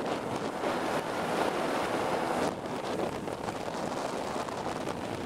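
Small cabin boat underway on its Johnson 35 hp outboard, the motor's sound buried in wind buffeting the microphone and water rushing past the hull. The sound drops somewhat about two and a half seconds in.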